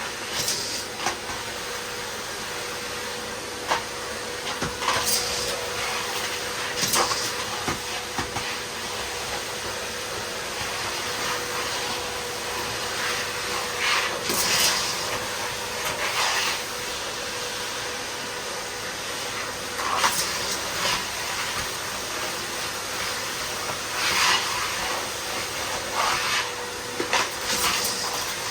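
Miele vacuum cleaner running steadily with a constant motor hum, broken every few seconds by short crunchy crackles and rattles as debris is sucked up the nozzle.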